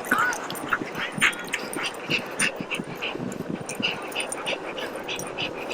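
A dog whining and yipping in short, high, repeated sounds.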